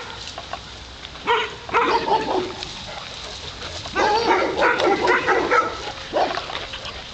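Several dogs barking and yipping: a short burst about a second in, then a longer spell of barking from about four to six seconds.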